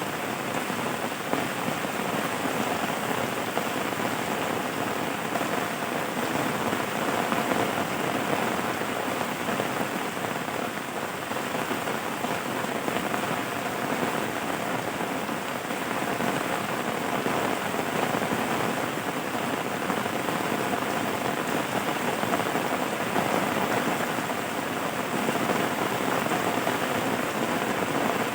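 Steady rain falling on a surface, an even dense hiss of drops that holds the same level throughout.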